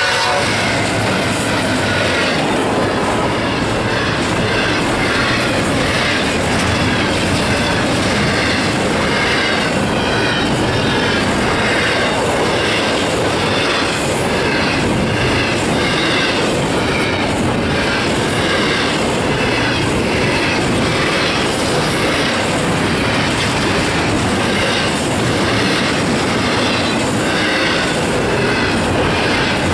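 Freight train passing close by: the diesel locomotives go past in the first couple of seconds, then a long string of double-stack intermodal well cars rolls by. It is a steady, loud rumble and rattle, with rhythmic clicking of wheels over the rail joints.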